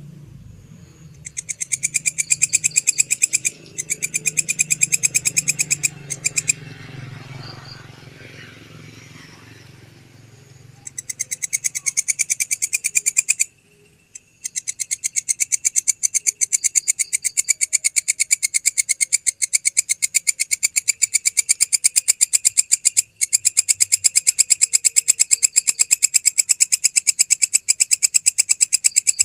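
A grasshopper-type insect (belalang) stridulating at night: a high, rapid pulsing buzz in long bouts. It falls silent for a few seconds about a third of the way in, then sings almost without break to the end.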